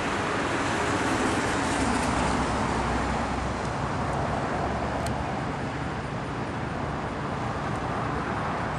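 Steady rumble and hiss of distant engine noise, swelling slightly about a second or two in and then easing off.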